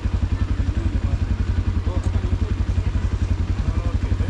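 Motorcycle engine running at low revs, an even low pulsing of about ten beats a second, with faint voices in the background.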